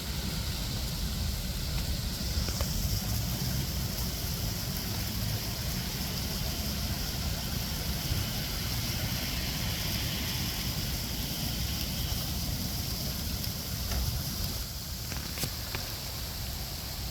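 Steady hiss of falling rain during an ice storm, with a low rumble underneath and a few faint ticks near the end.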